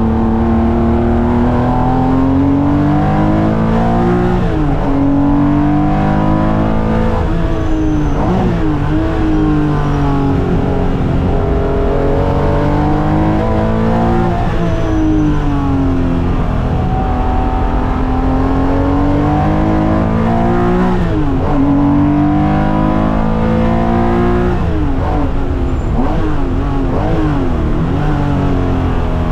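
Porsche race car's air-cooled flat-six engine at speed, its pitch repeatedly climbing and falling over a few seconds at a time, with quick dips and jumps in between as it is driven hard around the track.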